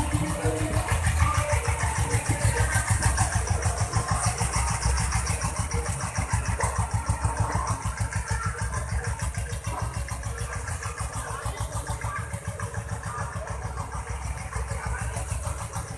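Ruggerini diesel engine on a home-built motorbike running with an even, rapid chug, growing gradually fainter.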